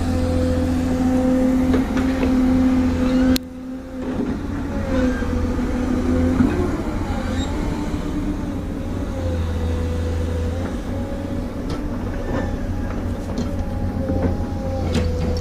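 Diesel engine of heavy earthmoving machinery running steadily, its pitch wavering up and down as it works. It cuts out briefly about three seconds in, then carries on.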